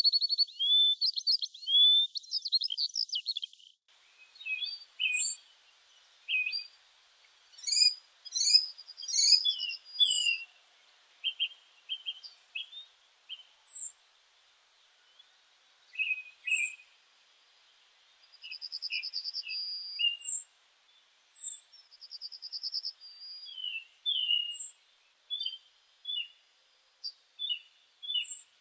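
Several songbirds singing and calling. A dense, continuous warbling song fills the first few seconds, then stops abruptly about four seconds in. After that come scattered chirps, high thin single notes and short trills that repeat every few seconds.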